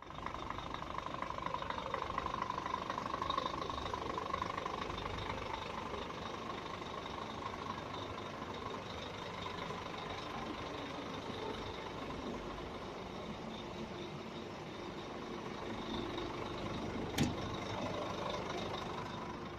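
Scania R 440 truck's six-cylinder diesel engine running steadily at idle, with a single sharp click near the end.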